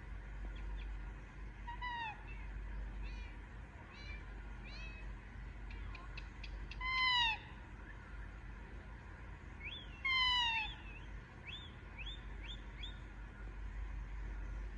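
Baby Indian ringneck parakeet calling: falling, meow-like calls, the two loudest about seven and ten seconds in, with short rising chirps in between.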